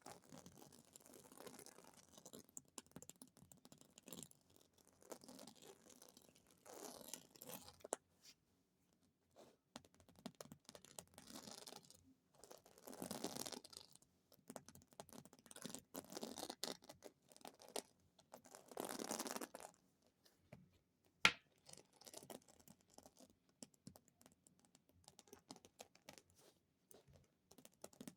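Very fast tapping and scratching on small objects, in dense flurries of one to two seconds with short pauses between them. One single sharp click about two-thirds of the way through is the loudest sound.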